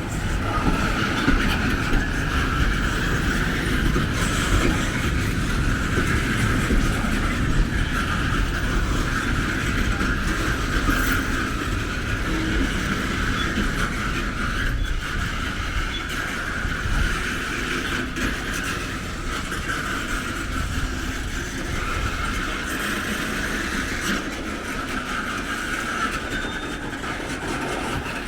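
A train running past on the track, a steady rumble of wheels on rails that fades slightly toward the end.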